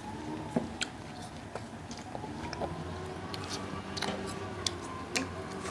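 Children chewing and biting food, with scattered soft clicks and mouth sounds.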